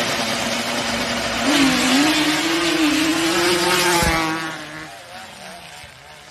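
Vehicle engine running loud over heavy road and wind noise, its pitch wavering up and down. A single sharp thump comes about four seconds in, after which the sound fades.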